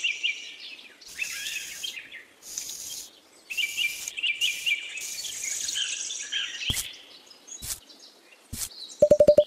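Small birds chirping in a run of quick repeated calls over a faint hiss. A few sharp clicks come late on, and a short rapid buzzing rattle right at the end.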